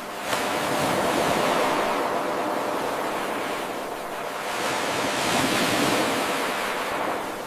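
Ocean waves washing in and drawing back, a steady rush that swells and fades twice. A little after the start the level jumps up suddenly where the 8-second wave recording loops back on itself.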